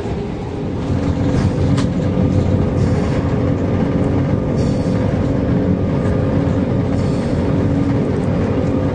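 Jet airliner heard from inside the cabin on its takeoff roll: the engines run at a steady, loud rumble with a constant tone over it, and the cabin rattles. The sound steps up in level about a second in and then holds.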